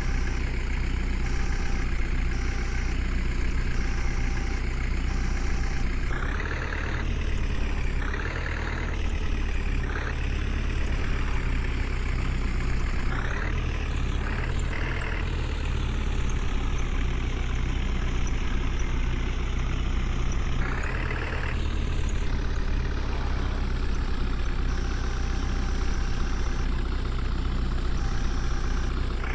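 Tractor diesel engine running steadily under load, with several brief surges in engine note. A faint tone pulses about once a second near the start and again near the end.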